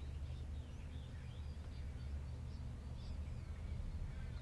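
Faint, scattered bird chirps, many short quick notes, over a steady low hum.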